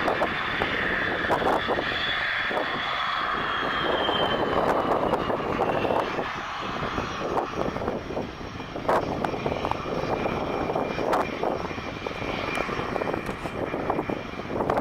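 CF-18 Hornet's twin jet engines running with a high whine that slides down in pitch a few seconds in, then holds steady over a rough rumble.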